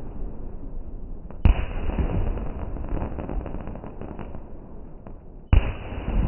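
Fireworks bursting overhead: two loud bangs about four seconds apart, each followed by a rolling rumble and a spatter of crackling, over the continuing rumble of the display.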